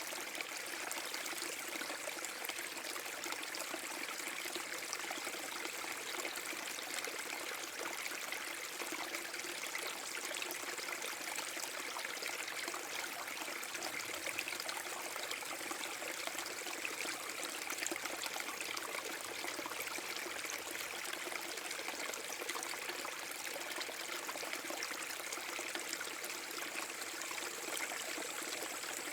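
Small waterfall on a forest brook: water pouring and splashing steadily.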